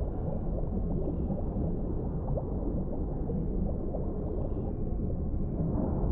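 Deep-sea underwater ambience: a steady low rumble with scattered short gurgling blips.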